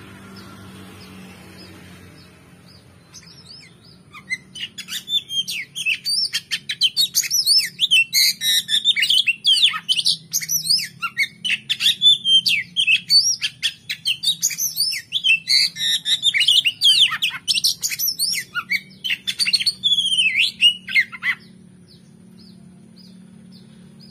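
Oriental magpie-robin (kacer) song: a fast, loud run of varied whistles and chattering phrases that starts about four seconds in and stops a few seconds before the end, with only faint sparse chip notes before and after.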